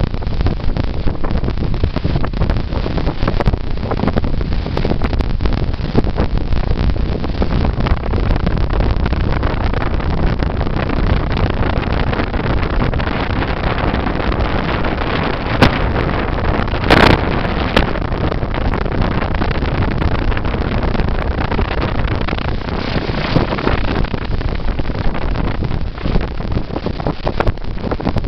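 Sea waves washing onto the beach, with strong wind buffeting the microphone. A brief sharp crackle comes a little past halfway.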